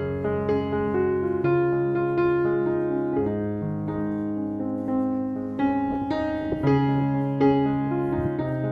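Background music: gentle piano playing sustained chords and a slow melody.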